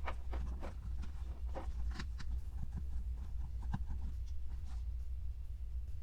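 Small clicks and taps of plastic Play-Doh toy pieces and molds being handled, most of them in the first few seconds, over a steady low hum.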